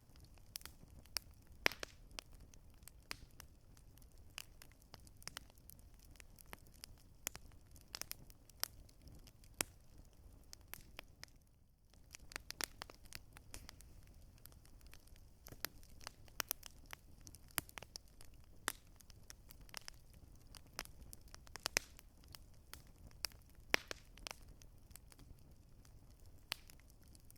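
Campfire burning, the wood crackling and popping in many irregular sharp snaps over a faint low rumble, with a brief lull about halfway.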